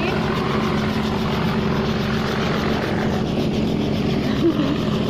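Helicopter running steadily: a continuous engine and rotor noise with a low, even hum.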